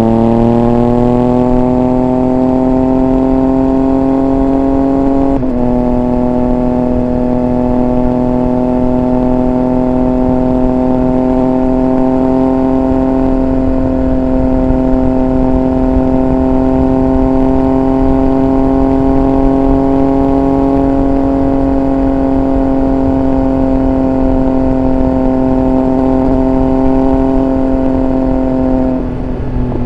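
Triumph Speed Triple 1200 RR's inline three-cylinder engine under way: the revs climb at the start, then hold steady and high for most of the stretch with a brief break about five seconds in, and the pitch drops just before the end as the revs fall.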